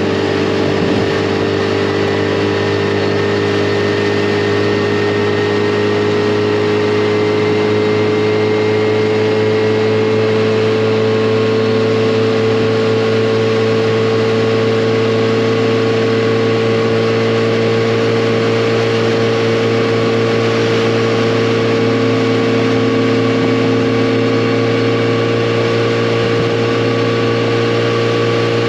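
Yamaha FJR1300's inline-four engine running steadily at cruise, its pitch creeping slowly upward as the bike gathers speed, over a steady rush of road and wind noise.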